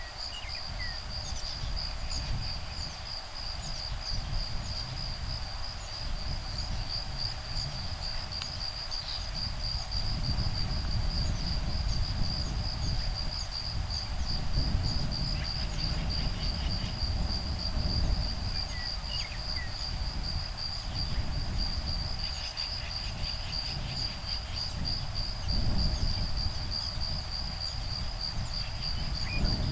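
Insects singing in a steady, fast-pulsing high trill, over a low rumble of breeze that swells and eases. A few short bird calls come in around the middle and again later.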